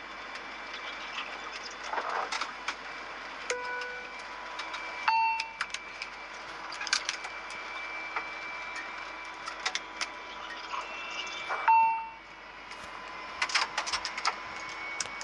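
Airliner chime sounding a few single dings, the loudest near the end, over a steady cockpit hum with scattered sharp clicks.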